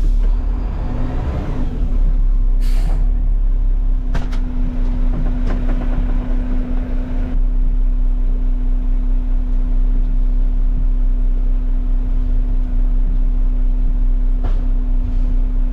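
Garbage truck's diesel engine running with a steady drone. A short hiss of air, like an air brake, comes about three seconds in, with a few sharp clicks. A rougher layer of noise dies away about seven seconds in.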